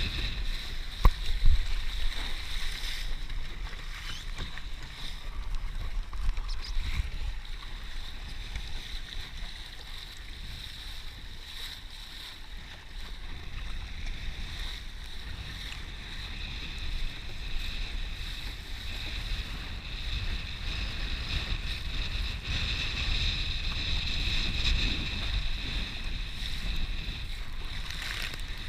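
Wind buffeting the microphone and water rushing past a Laser sailing dinghy under way, with a steady high-pitched tone behind it. There are a couple of sharp knocks about a second in.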